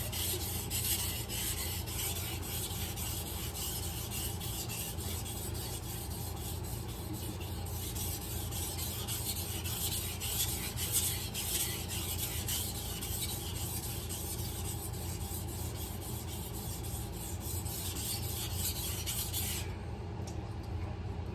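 Steel knife blade being stroked back and forth over a wet 800-grit whetstone covered in slurry: a steady, gritty scraping that stops suddenly near the end. A low steady hum runs underneath.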